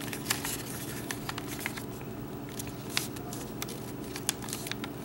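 A sheet of paper being folded and creased by hand: scattered crisp crackles and rustles over a steady low hum.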